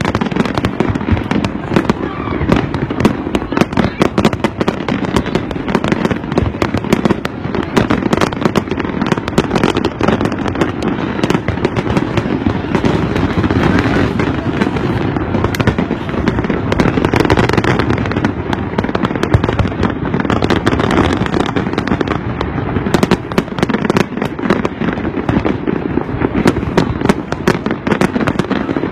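Fireworks display going off in a continuous barrage: many sharp bangs a second mixed with crackling, with no pause.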